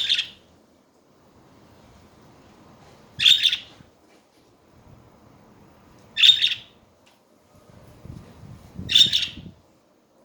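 Budgerigar giving four short, loud, high chirps about three seconds apart, with a low rumble under the last one.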